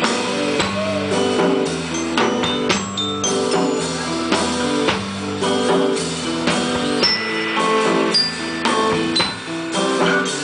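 Live indie rock band playing an instrumental passage between verses: strummed guitar and drum kit keep a steady beat, with no vocals.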